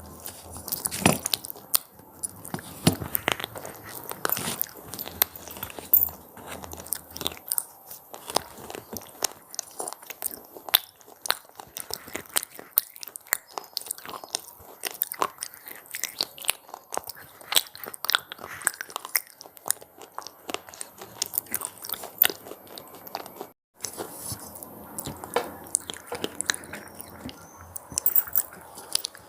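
Close-up biting and chewing of crunchy puffed corn snacks (cheese pizza crunches): a steady run of sharp, irregular crackles and crunches, with a brief gap of silence a little before the end.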